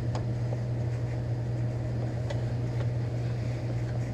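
Garage heater running with a steady low hum, with a few faint clicks of hands handling the opener's parts.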